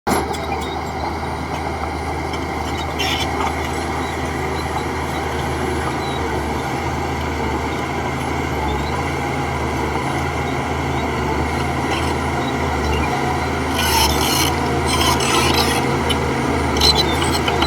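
Bulldozer's diesel engine running steadily under a rasping, scraping noise of heavy machinery at work, with a few clanks around three seconds in and again near the end.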